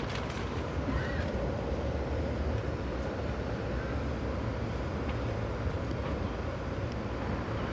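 Amtrak passenger train in motion, heard from on board: a steady rolling rumble with a few faint clicks.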